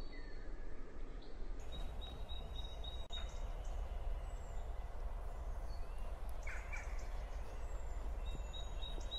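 Steady low rumble of background noise with faint bird chirps and short trills over it.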